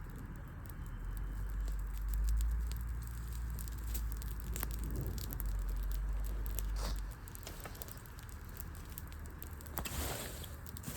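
Wood fire crackling, with scattered sharp pops and ticks. A low rumble runs under it for the first seven seconds and then stops suddenly, and a brief louder rush of noise comes near the end.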